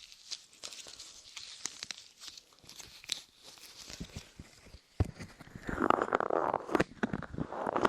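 Light clay pressed and pulled on the ears of an ASMR microphone: sticky crackles and clicks, with louder muffled rubbing from about six seconds in.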